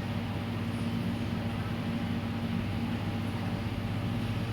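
A steady low mechanical drone that holds the same pitch and level throughout.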